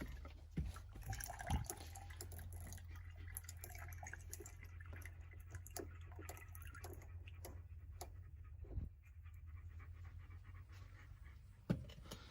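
A dog panting, over a steady low rumble with a few soft knocks.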